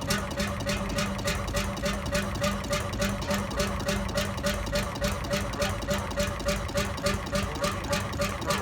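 Old stationary engine running steadily, with an even, quick beat of firing strokes over a steady hum.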